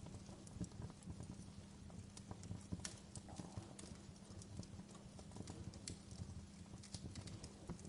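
Fireplace fire crackling, with irregular pops and snaps, some sharper than others, over a soft low rumble.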